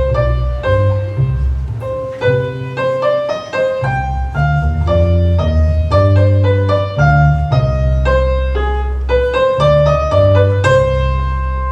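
Piano music in a baroque style, a quick run of notes over a sustained low bass line, closing on a held final chord near the end.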